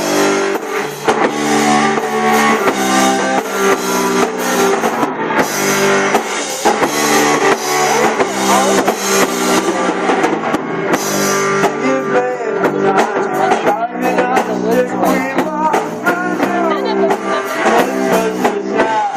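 Live rock band playing an instrumental passage without vocals: electric guitar chords over a drum kit.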